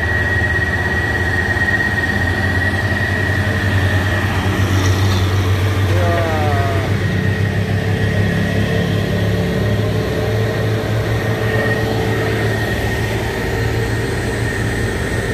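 Heavy diesel trucks running under load up a steep climb: a steady low engine drone with a high whine held over it, and voices faintly mixed in.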